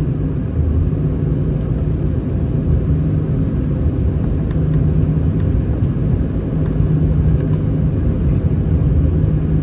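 Steady low rumble inside an Airbus A319 cabin, from its CFM56 engines and airframe, with a steady hum running underneath.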